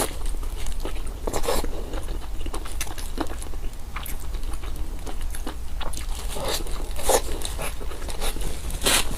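Close-miked biting and chewing of crunchy food, with crisp crunches every second or so, the loudest about one and a half seconds in, about seven seconds in and near the end. A steady low hum runs underneath.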